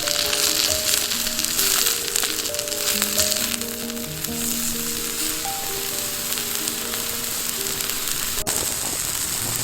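Food sizzling and crackling in a hot pan, with soft background music playing slow sustained notes.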